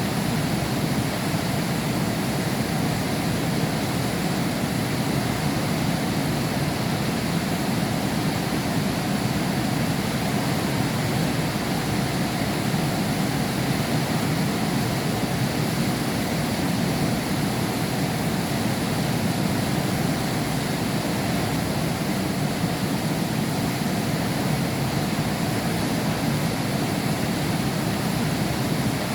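Heavy rain falling steadily, heard from behind a window pane: an even, unbroken rush with no thunder.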